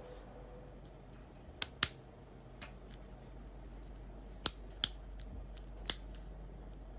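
Six short, sharp mechanical clicks at irregular intervals, two of them in close pairs, over a quiet background.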